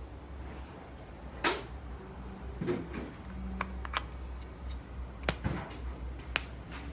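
A capsule coffee machine being handled: about six sharp clicks and knocks, spaced irregularly over a steady low hum.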